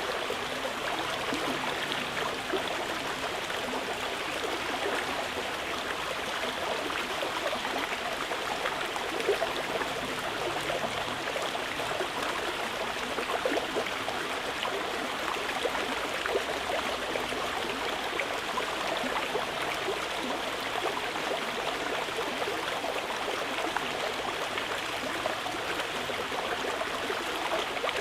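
Water flowing in a stream, a steady rushing babble.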